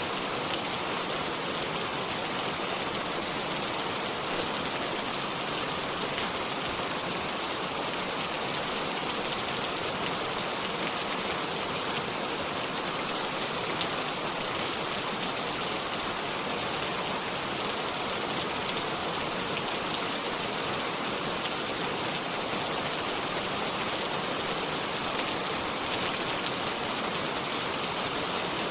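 Steady rainfall, a dense even hiss of drops with fine pattering on surfaces, no thunder.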